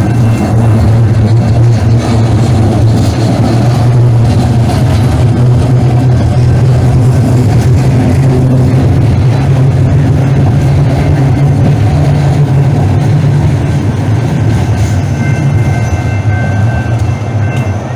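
Loud, steady running noise of a Calgary Transit vehicle under way, a dense rumble over a strong low hum, easing off slightly near the end.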